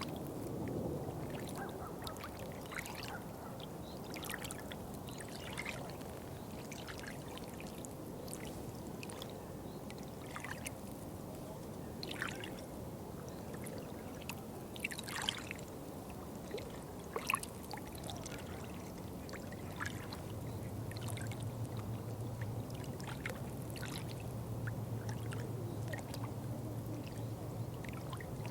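Water trickling and splashing, with many small sharp drips and plinks scattered through. A low steady hum comes in about two-thirds of the way through.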